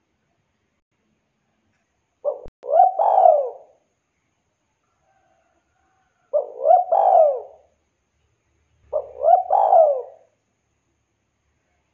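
Spotted dove (tekukur) cooing three times, a few seconds apart. Each call is a short phrase of a few coos, ending in a longer falling note.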